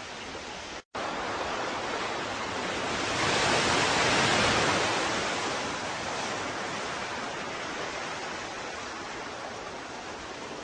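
Ocean surf: a steady wash with one wave swelling up and breaking a few seconds in, then slowly receding. A split-second gap of silence cuts in just under a second in.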